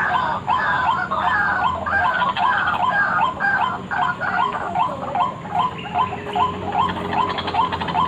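White-breasted waterhen (ruak-ruak) call, as used for a bird lure: a fast, rhythmic series of repeated notes, about three to four a second. The notes become shorter and sharper about halfway through.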